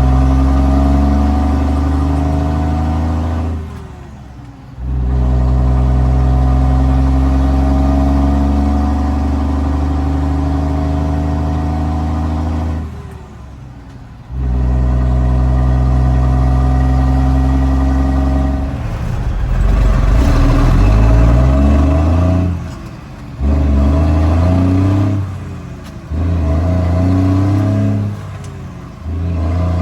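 Straight-piped Cummins L10 turbo diesel in a 1986 Ford L9000 dump truck pulling through the gears. The engine note holds for long stretches, then drops away briefly at each shift. About two-thirds of the way through, the revs climb, and a quick run of short pulls with gaps between shifts follows.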